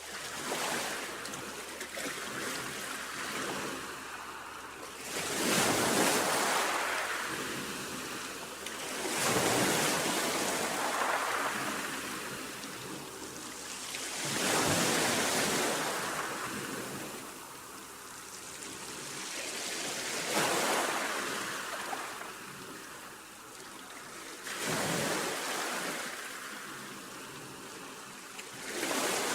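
Sea waves washing in. Each wave swells into a broad hiss and then draws back, about every four to six seconds, six times in all.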